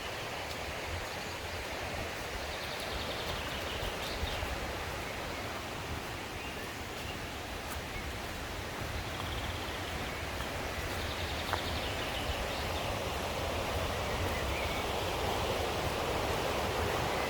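Mountain stream rushing over rocks, a steady rush of water that grows slightly louder near the end.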